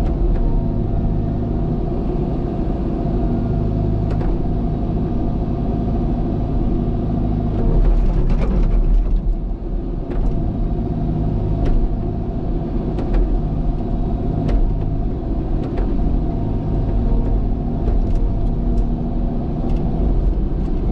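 Heavy earthmoving machine's diesel engine running under working load, with scattered sharp clicks and knocks of metal. It grows louder briefly about eight seconds in.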